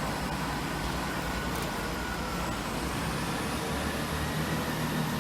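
Chiltern Railways Class 165 diesel multiple unit running steadily with a low engine hum as it pulls out, and a faint high whine that rises slightly about three seconds in.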